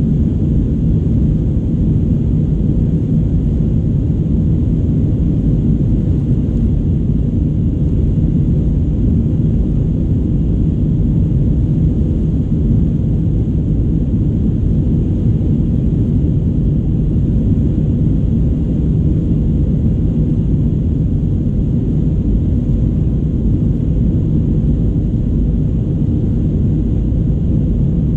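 Steady low rumble of an Airbus A319's engines and airflow, heard from inside the passenger cabin.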